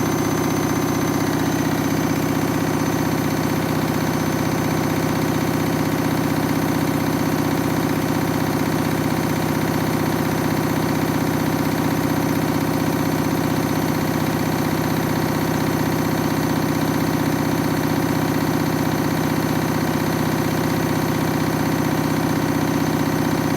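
Front-loading washing machine spinning a load of towels at high speed, a steady hum of several tones with no change in speed. The load is badly out of balance, which sets the machine shaking.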